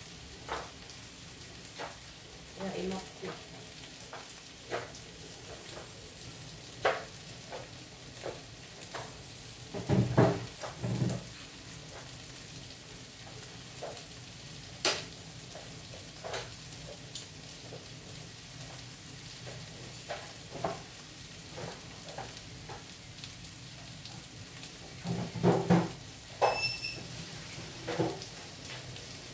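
Meat, zucchini and onion frying in oil in a non-stick pan: a steady sizzling hiss with scattered pops and crackles, and a few louder moments about ten seconds in and again near the end.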